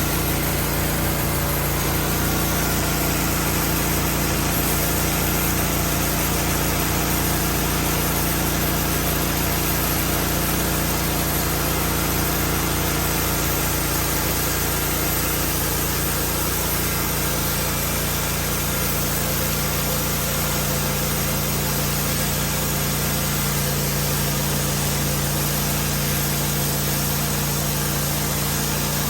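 Woodmizer LT15 portable sawmill's engine running steadily.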